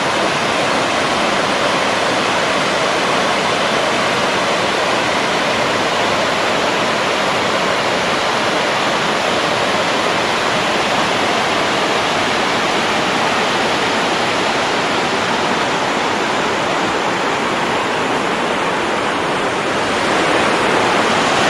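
Buttermilk Falls on the Raquette River: whitewater rushing over the rocks in a loud, steady roar that gets a little louder near the end.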